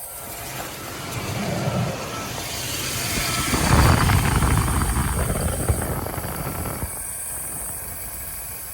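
Pickup truck engine running, the sound building to a peak about halfway through and then easing off.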